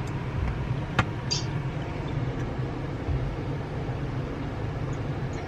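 Steady low rumble of a car, with a single sharp click about a second in.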